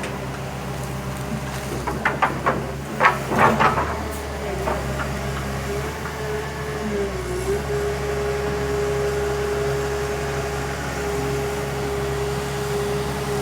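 Backhoe's diesel engine running steadily, its pitch dipping briefly and recovering about seven seconds in, with a cluster of sharp knocks about two to four seconds in.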